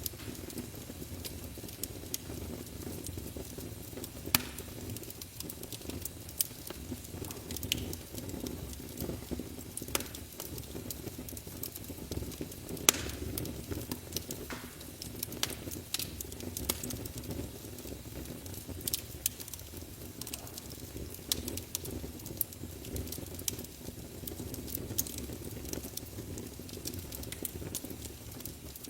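Fire burning in a fireplace, crackling: sharp, irregular pops and snaps over a steady low rumble of flames.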